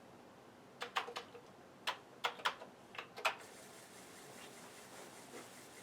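Keys clicking on a Commodore 64 keyboard, about eight irregular strokes as a command is typed. About three and a half seconds in, a faint steady whir starts: the Commodore 1541 disk drive spinning up to try the load.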